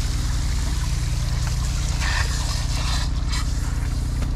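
Water running and spraying from a leaking water main, over the steady running of an idling engine.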